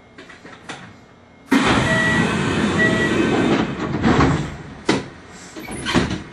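Inside the cab of a Kintetsu Ikoma Line electric train standing still: a sudden loud rush of air about one and a half seconds in, lasting about three seconds, with two short beeps during it, then a couple of sharp clicks.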